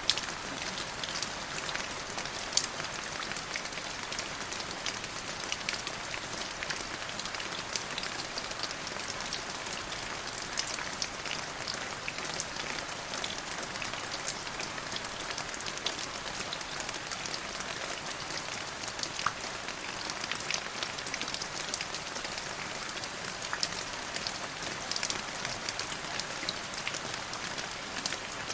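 Steady rain falling: an even hiss made up of many separate drop ticks, with a few louder single drops standing out now and then.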